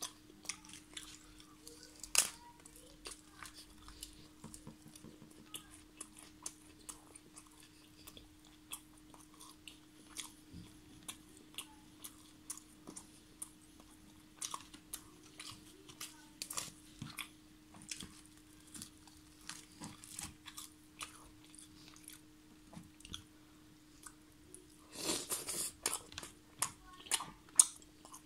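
Close-miked chewing of tandoori chicken and naan: wet smacking and soft crunching mouth sounds, with a sharp click about two seconds in and a denser bout of chewing near the end. A faint steady hum runs underneath.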